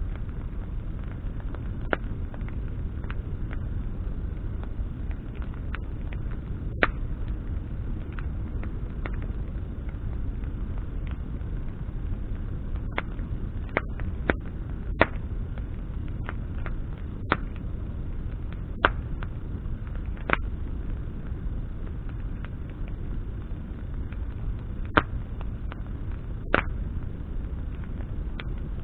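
Campfire of burning branches crackling: sharp, irregular pops and snaps, a few of them loud, over a steady low rushing noise.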